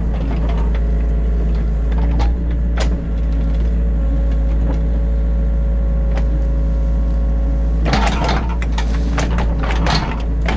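Mini excavator's diesel engine running steadily under load, heard from inside the cab, with a few sharp knocks and, from about eight seconds in, a stretch of clattering and scraping as the machine works the bucket.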